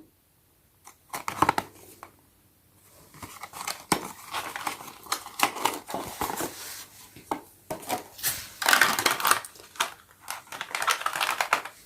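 Toy packaging being handled and opened: cardboard and plastic rustling and crinkling with many small irregular clicks, starting about a second in and pausing briefly near the start.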